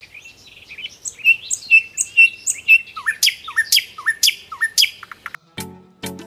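Songbird chirping: a run of short repeated chirps, then a series of sharp sweeping calls about two a second. Background music with a beat comes in near the end.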